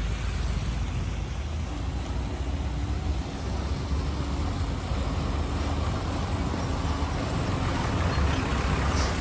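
Road vehicle engines, trucks and buses among them, running with a steady low rumble in heavy, slow traffic on a muddy road; a faint steady engine tone rides over it for a few seconds in the middle.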